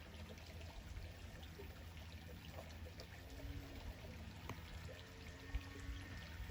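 Shallow creek water trickling and running, faint and steady.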